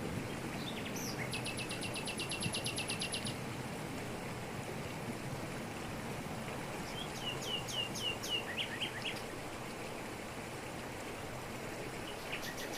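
Waterfall rushing steadily over rocks in tropical forest, with birds calling over it: a fast high trill for about two seconds a second in, a run of about eight down-slurred notes around the middle, and another trill beginning near the end.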